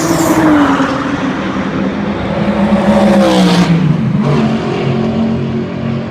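Audi R8's V8 through an aftermarket Scart exhaust, under way: the revs sag, climb for about a second, drop sharply about three and a half seconds in, then hold steady.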